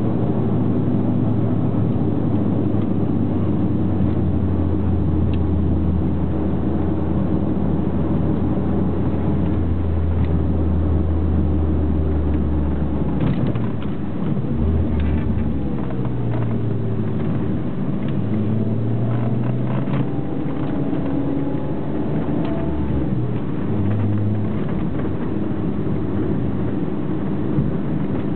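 Mk2 Ford Mondeo ST24's 2.5-litre V6, with short-tube headers and a full 2.5-inch exhaust, heard from inside the cabin under way on track. It holds a steady drone for the first half, then the revs rise and fall repeatedly through the second half.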